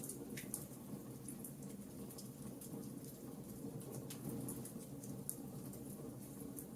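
Wood fire burning in a fireplace, crackling with scattered sharp pops and ticks over a low steady rumble.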